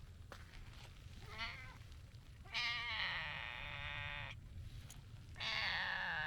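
Brown tabby cat with a hoarse, gravelly voice meowing: a short meow, then two long drawn-out meows.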